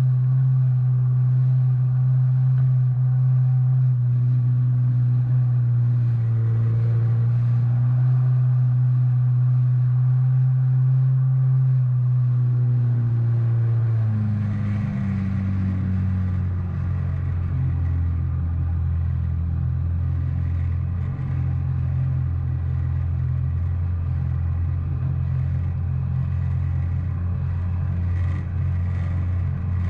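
2019 Yamaha FX SVHO WaveRunner's supercharged four-stroke engine running at a steady cruise. About halfway through, its note drops to a lower, rougher pitch as the revs come down, and it holds there.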